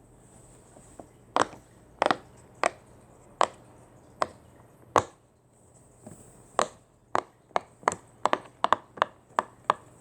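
A series of sharp, hard taps or knocks, like a knife striking a cutting board. They come singly about every two thirds of a second, stop briefly midway, then return faster and more closely bunched near the end.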